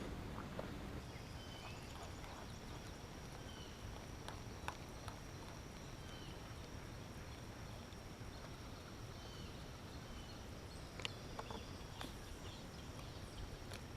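Quiet swamp ambience: short bird chirps repeating every second or two over a steady high-pitched buzz that starts about a second in, with a few light knocks, the clearest about eleven seconds in.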